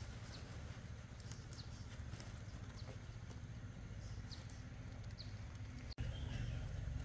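Scattered short, high, falling chirps from small birds over a steady low rumble. About six seconds in the sound cuts out for an instant and comes back with a louder rumble.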